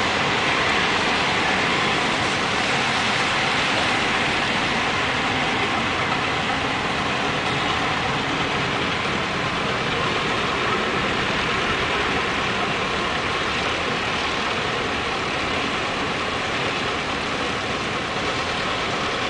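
Steady hiss of heavy rain and floodwater, even and unbroken.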